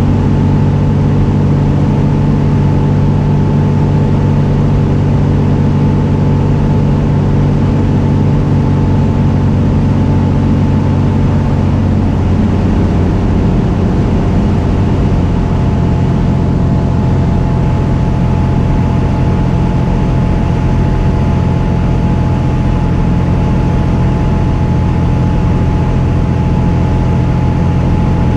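Cessna 206 Turbo's piston engine and propeller running steadily, heard from inside the cockpit. The engine note drops slightly about twelve seconds in.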